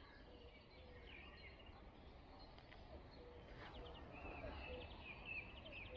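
Near silence with small birds chirping faintly, the chirps coming more often toward the end.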